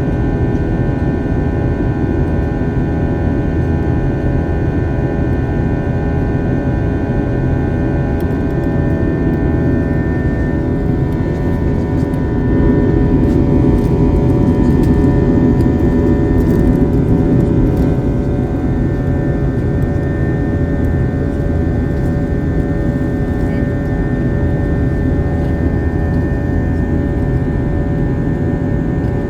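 Steady jet engine and airflow noise inside an airliner cabin: a low rumble with several steady engine tones above it, swelling a little for a few seconds around the middle.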